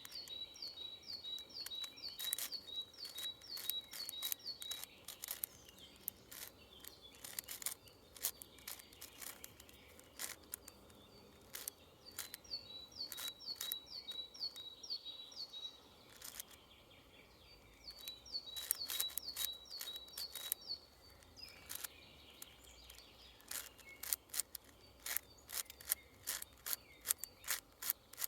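Irregular clicks and clacks of a 6x6 twisty-puzzle cube's layers being turned by hand. A songbird sings three times, each song a quick run of evenly spaced high notes lasting a few seconds.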